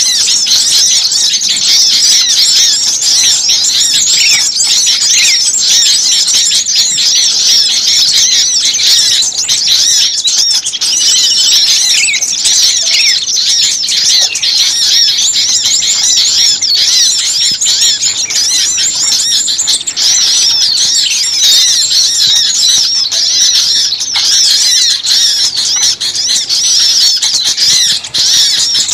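A loud, dense chorus of many small songbirds chirping and calling at once, with rapid overlapping high chirps and no let-up: a noisy, agitated bird-lure recording of small birds.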